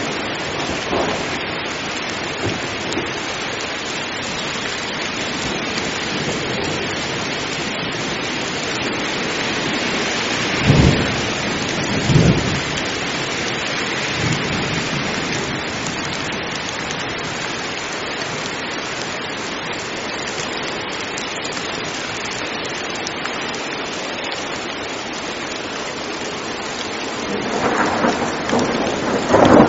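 Heavy rain falling steadily in a thunderstorm. Two sharp claps of thunder come about a second apart a third of the way through, and a louder roll of thunder builds near the end.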